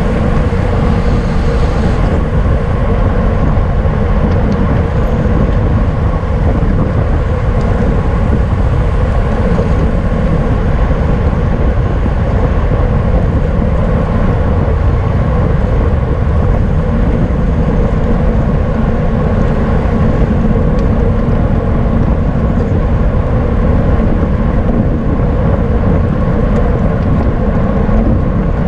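Steady, loud wind rush and road noise from a racing bicycle moving at speed, with no let-up.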